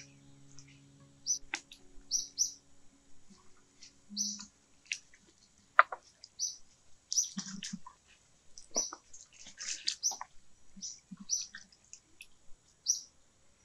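A small bird repeating a short, high chirp about once a second. Light splashes and knocks come from ginger and vegetables being washed by hand in a metal bowl of water.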